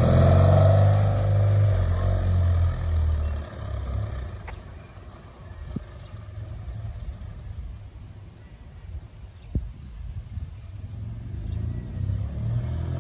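BMW R90S motorcycle's air-cooled flat-twin engine riding past and away down the street, its note fading over the first few seconds to a faint distant rumble. It grows louder again toward the end as the bike comes back.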